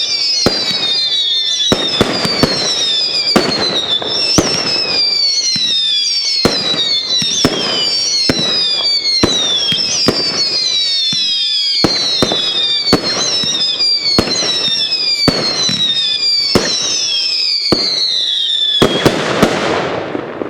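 Fireworks cake firing whistling-tail shots that end in salute bangs: a run of falling whistles, about one a second and often overlapping, each followed by a sharp report. Near the end a last, denser volley goes off and then dies away.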